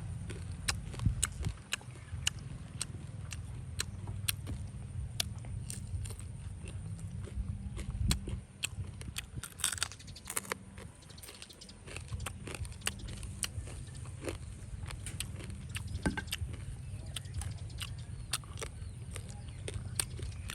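Close-up eating sounds of someone biting and chewing chicken feet, with many small, sharp crunching clicks over a steady low rumble.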